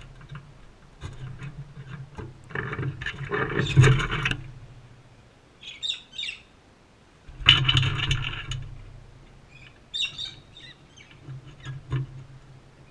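Crimson rosellas at a seed feeder close to the microphone: scratching and pecking noises in two loud spells, one a couple of seconds in and one just past the middle, with a few short chirps between them and near the end.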